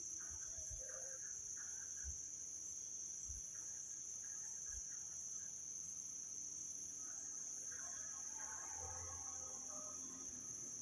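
Steady, high-pitched insect trill, with a few faint low thumps.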